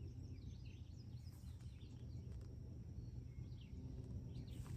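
Faint bird chirps, a few short calls here and there, over a low steady rumble of outdoor background noise.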